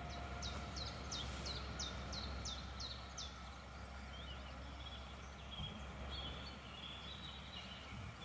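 A songbird singing: a quick run of about eight falling whistled notes, then a softer warbling twitter, over a steady low background rumble.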